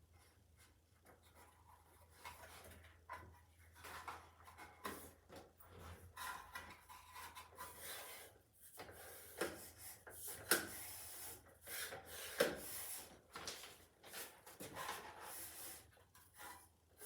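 Handling noise from a Milwaukee M18 Rocket tower light being set up: irregular rubbing and scraping of its parts, with scattered clicks and knocks as the legs and extension pole are worked.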